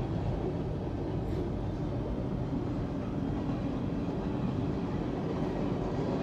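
Train passing, a steady low rumble.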